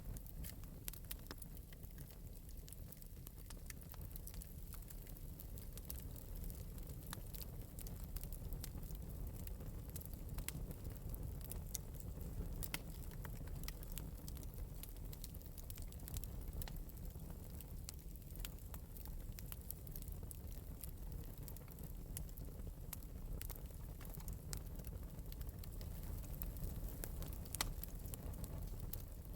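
Wood fire in an open metal fireplace burning with a soft low rumble and frequent small, sharp crackles and pops scattered throughout.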